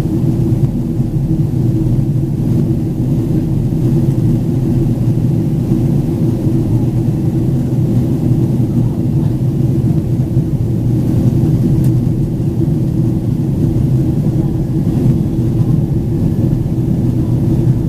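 Boeing 767-400ER cabin noise heard from a seat behind the wing: the twin General Electric CF6-80C2 turbofans and rushing air make a steady, loud, low rumble with a held hum in it and no change in pitch.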